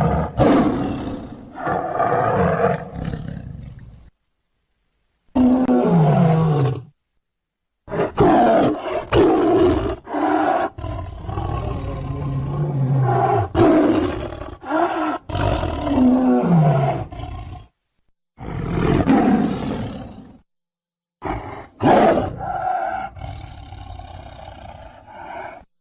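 Tiger roaring again and again: a string of separate roars, some with a falling pitch, cut apart by brief spells of dead silence.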